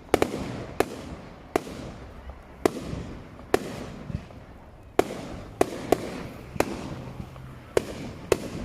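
Fireworks going off: a string of sharp bangs, about eleven in all, irregularly spaced at roughly one a second, some in quick pairs.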